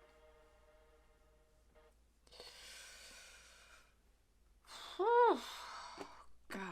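A person's long breathy exhale, then a short voiced sigh about five seconds in whose pitch rises and falls. The last held notes of a song fade out at the start.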